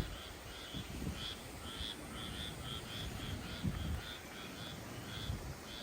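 Frogs calling: a steady run of short, high chirping notes, several a second, over a low rumble of wind and rain.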